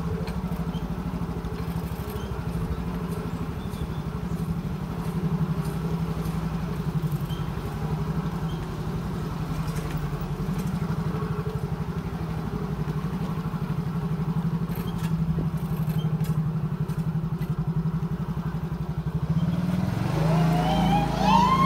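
Motorcycle engine running at a steady, easy pace during a ride. A voice comes in near the end.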